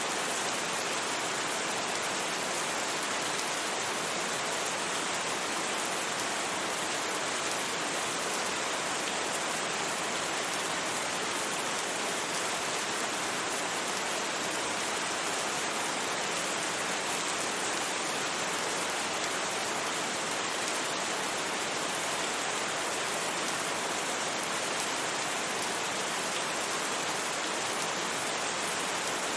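Steady rain, an even hiss with no separate drops, thunder or changes in level.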